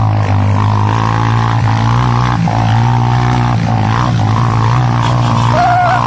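Motorcycle engine running steadily under way, its drone shifting a little in pitch a few times with the throttle. A brief wavering high tone sounds near the end.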